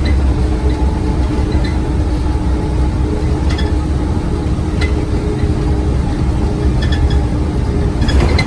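Scania OmniCity bus's diesel engine running steadily, with a deep rumble and a steady hum. A few brief sharp clinks and rattles sound over it.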